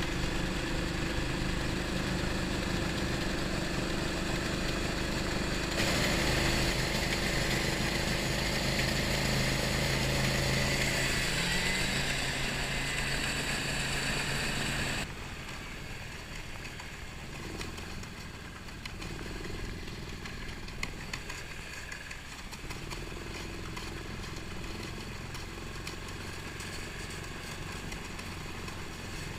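Snowmobile engine running steadily. About halfway through, the sound drops suddenly to a quieter, steady engine.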